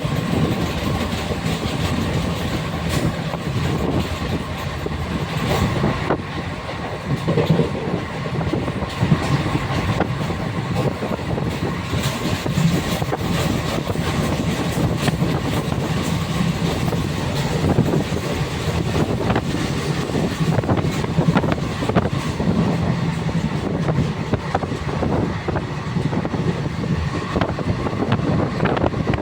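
Passenger train running on the rails: a steady rumble with scattered clicks from the wheels and carriages.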